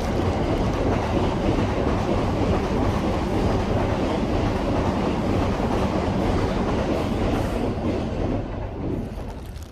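Train passing close by: a loud, steady rumble with wheel clatter that fades away near the end.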